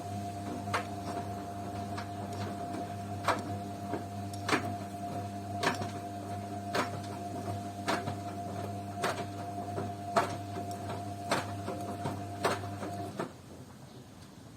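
Beko washing machine tumbling a wash: the drum motor hums steadily while a sharp knock comes about once a second as the drum turns. The motor cuts out about thirteen seconds in, leaving the drum quiet.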